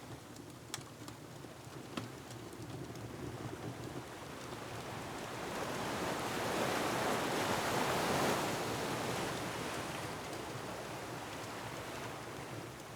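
An ocean wave surging in, building to a peak about midway and washing back out, over a steady low rumble of surf. A couple of sharp fireplace crackles snap in the first two seconds.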